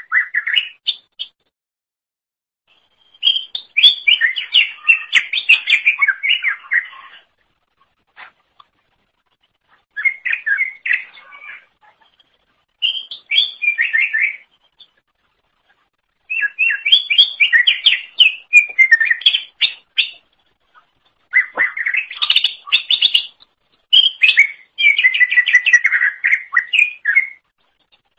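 Greater green leafbird (cucak ijo) singing: loud, rapid phrases of warbled and whistled notes, delivered in bursts of one to four seconds with short pauses between them.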